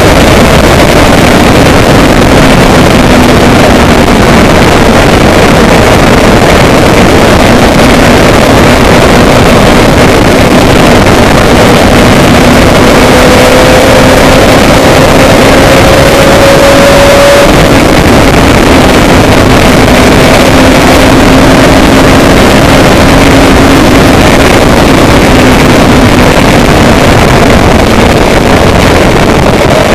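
Loud, steady noise of a moving vehicle, with an engine hum that drifts slowly up and down in pitch.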